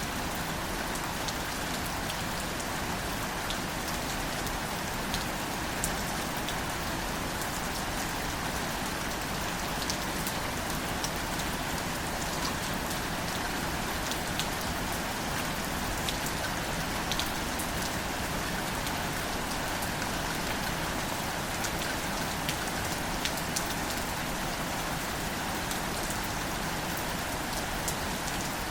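Steady gentle rain falling on wildflowers and leaves, an even patter with scattered sharper drop ticks.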